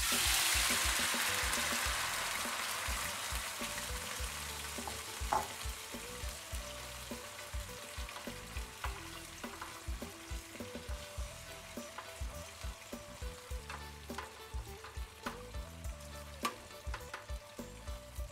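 Marinated beef and garlic hitting hot oil in a frying pan, sizzling hardest as it lands and then settling to a quieter steady fry as the marinade heats. A spatula stirs and scrapes against the pan with frequent light clicks.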